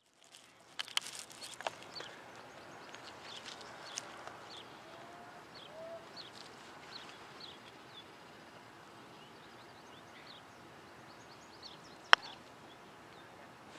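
Small birds chirping over quiet outdoor ambience, with one sharp click near the end.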